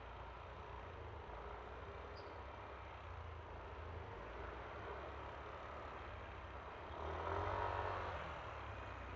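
Yamaha Aerox V3 scooter's single-cylinder engine and road noise, steady while riding, with a louder pitched swell lasting about a second, some seven seconds in.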